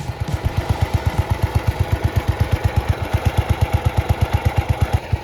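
Small single-cylinder lawn tractor engine, likely the Sears SS15's, running steadily at idle, with an even beat of about nine pulses a second.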